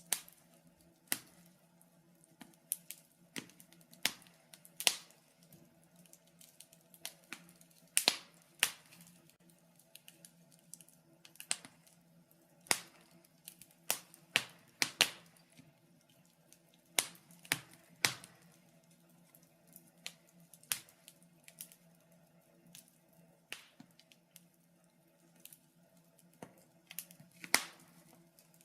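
Wood fire burning in a fireplace, crackling with irregular sharp pops of varying loudness over a faint steady low hum.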